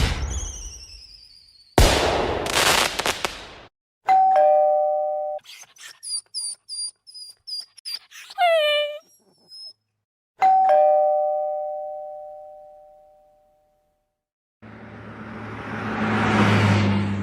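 An electronic doorbell sounds its two-tone ding-dong chime twice, about four seconds in and again about ten seconds in; the second chime rings out slowly. Between and around the chimes are short unrelated sounds: a sharp hit at the start, a noisy burst, a run of quick high chirps, and near the end a rumbling noise that swells and fades.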